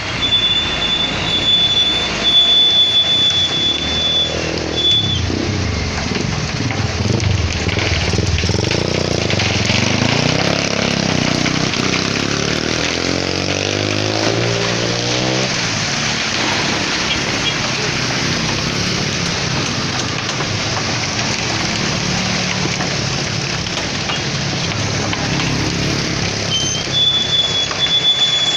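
Concrete mixer truck's diesel engine running, its pitch rising and falling between about 4 and 16 seconds in, over a steady rushing noise, with a thin high whine near the start and again near the end.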